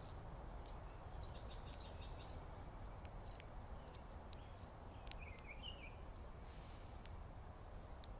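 Small birds chirping faintly over a steady low background rumble, with a short warbling call about five seconds in and a few sharp ticks.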